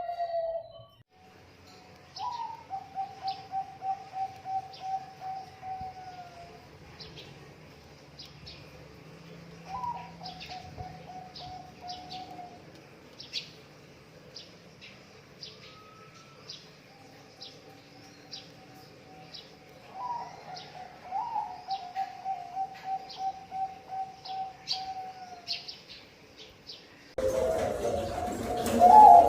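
Zebra dove (perkutut) cooing: phrases of rapid, evenly pulsed soft notes that open on a higher note, heard about three or four times. They come at about two, ten and twenty seconds in, with a fainter one between. Short high chirps from another small bird repeat throughout, and the sound gets abruptly louder near the end.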